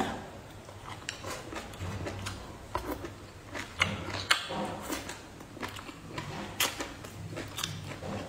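Close-miked chewing and biting: irregular crunches and wet mouth clicks as pickled vegetable strips and a glutinous-rice bamboo shoot are eaten.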